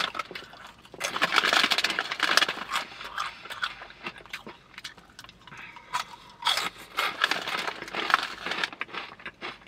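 Close-up crunching and chewing of lime Flamin' Hot Cheetos, in two main bursts about a second in and again past the middle, with some rustling of the chip bag.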